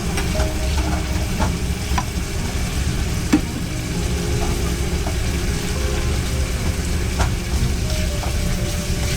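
Food sizzling as it fries, with sharp clicks and knocks of utensils, over a steady low rumble.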